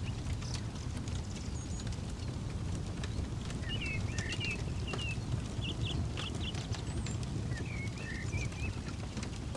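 Campfire crackling with scattered sharp pops over a low steady rumble, while small birds chirp in short phrases, most about halfway through and again near the end.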